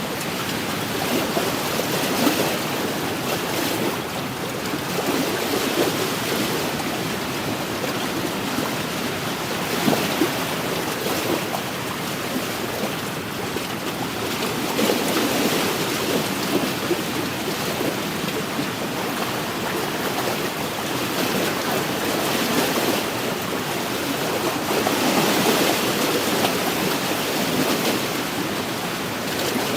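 Small wind-driven waves lapping against a lakeshore, a steady wash that swells and eases every few seconds, with wind gusting through.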